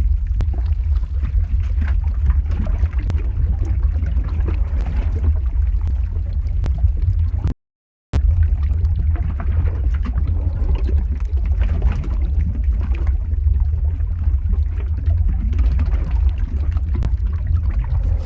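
Lava-flow ambience sound effect: a loud, steady deep rumble under a hiss of scattered crackles and pops. It cuts out to silence for about half a second partway through, then resumes unchanged.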